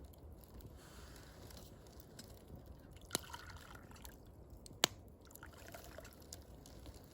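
Wood fire crackling faintly, with two sharp pops near the middle.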